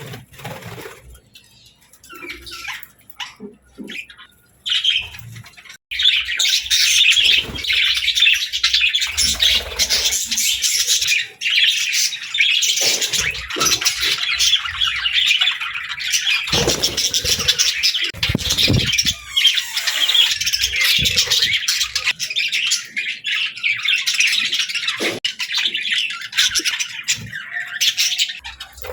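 A flock of pet budgerigars chirping and chattering: scattered short chirps and squawks at first, then a dense, continuous warbling chatter from about six seconds in.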